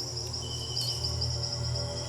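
Insects trilling steadily in a high, finely pulsing chorus, with a thin high note that sets in about half a second in and lasts under a second. Background music with a low, steady drone plays underneath.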